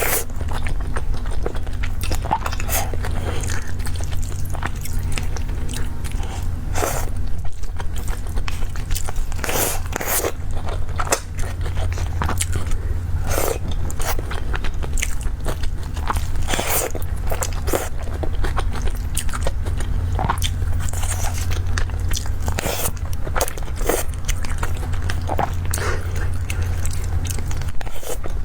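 Close-miked eating sounds: a person biting, chewing and crunching food in irregular short clicks, over a steady low hum.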